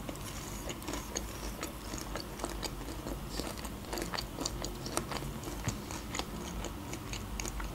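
Close-miked chewing of a crunchy battered onion ring, with many small crisp crunches and wet mouth clicks scattered irregularly.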